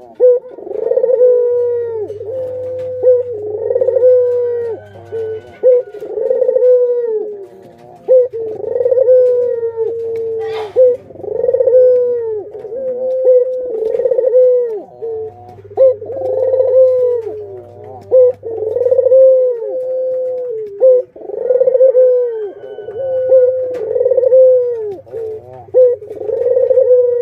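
Ringneck doves (burung puter) cooing over and over, about one rolling coo a second in a steady chain. There is a brief high squeak about ten seconds in.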